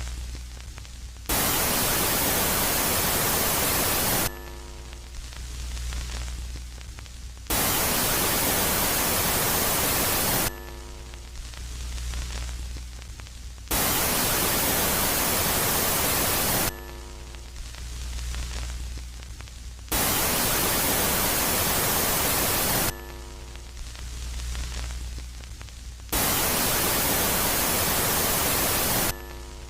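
Electronic space-ambient soundscape that alternates between a loud phase of static hiss and a quieter phase of low hum with faint steady tones, each lasting about three seconds. Five bursts of hiss come at an even pace, roughly one every six seconds.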